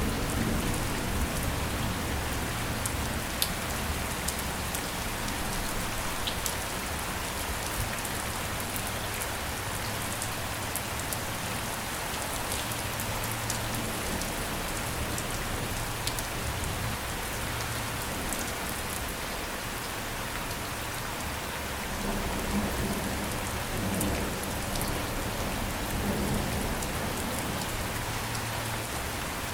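Steady rain falling on a surface, a continuous hiss with individual drops ticking through it. A low rumble of distant thunder swells about three-quarters of the way through.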